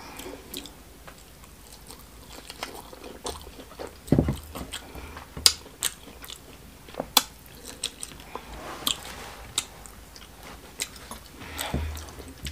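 Close-miked chewing of smoked catfish stew with rice, with scattered wet lip-smacks and mouth clicks.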